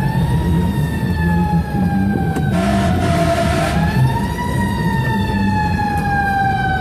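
Fire engine siren wailing, its pitch gliding slowly up and down, over a steady low rumble. About two and a half seconds in there is a short hiss lasting about a second.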